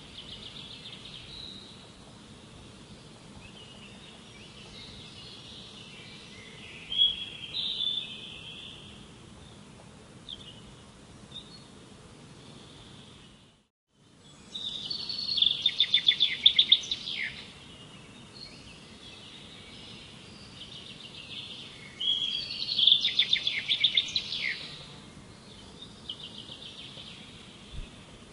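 Songbirds singing: loud phrases of rapid trilled notes, high-pitched, coming every several seconds over a steady background hiss, with a brief drop to silence about halfway.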